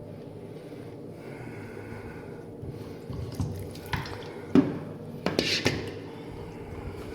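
Water running from a tap while a plastic water jug is filled, with several knocks and clatters in the middle, the loudest a sharp knock a little past halfway.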